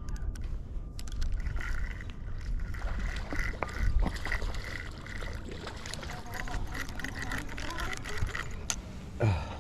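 Strong wind buffeting the microphone, with gusts, over running water. A short falling sound comes near the end.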